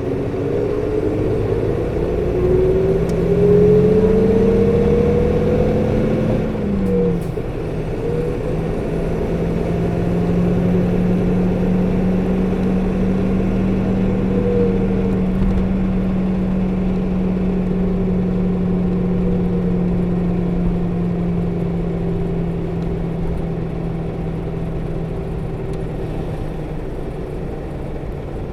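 Onboard sound of a 2008 PKG-RA274KAN city bus pulling away. The diesel engine's pitch rises over the first six seconds, drops at a gear change about seven seconds in, then holds steady while cruising. The engine's viscous coupling fan runs throughout with a whine that is high for the engine speed, a quirk of this particular bus.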